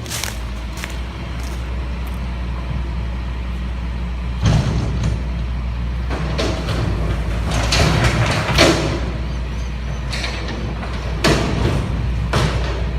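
Scania waste-collection truck's diesel engine running with a steady low rumble, with several bursts of hissing and mechanical noise over it, the loudest about two-thirds of the way through.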